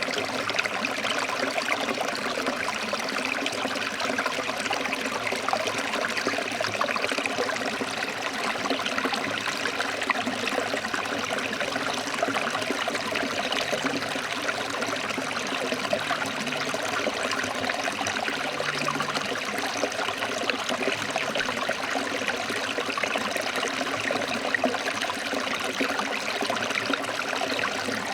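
Forest stream flowing over rocks: a steady, even rush and trickle of water.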